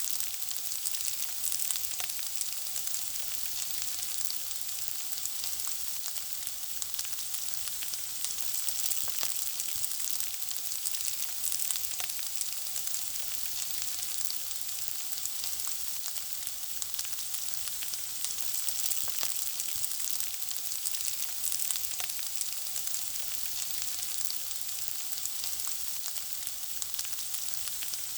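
Food frying in hot fat, a steady high sizzle with many small crackles and pops throughout.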